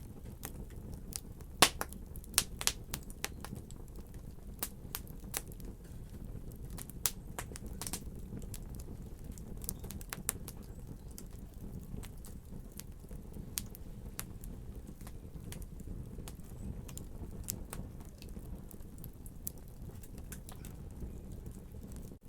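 Wood fire crackling in a fireplace: irregular sharp pops and snaps, a cluster of louder ones about two seconds in, over a steady low rumble of the burning.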